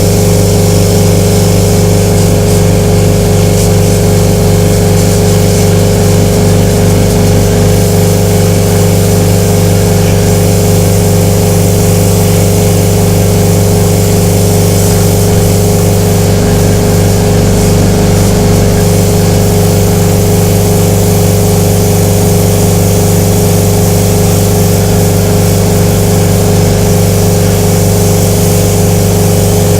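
Torrent 500 parts washer running: a loud, steady machine hum from its pump and motor, unchanging throughout.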